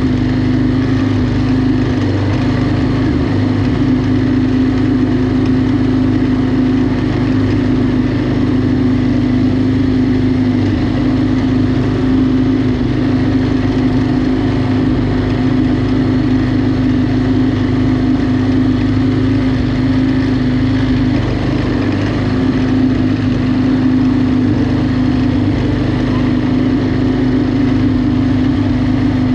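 Lawn mower engine running at a steady speed, with one unchanging pitch throughout.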